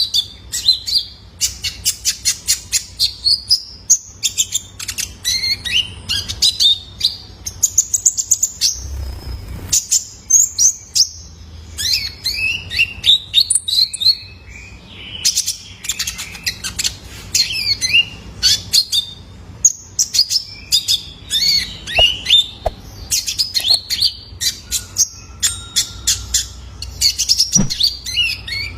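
Young male kolibri ninja sunbird singing: rapid, high chirps and twittering trills in quick bursts, one after another.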